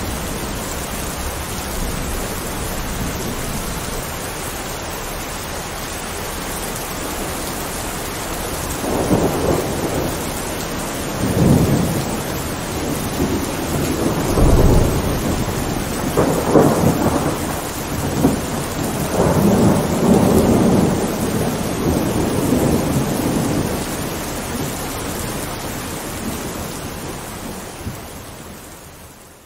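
Thunderstorm: steady heavy rain, with thunder rolling and rumbling repeatedly through the middle stretch, the deepest rumble about halfway. The whole sound fades out near the end.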